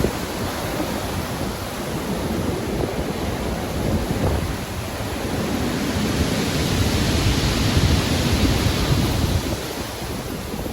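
Stormy ocean surf: a steady wash of breaking waves with wind, swelling about two-thirds of the way through and easing near the end.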